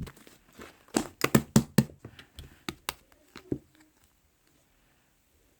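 A quick, uneven run of about ten sharp taps or knocks over two and a half seconds, then quiet.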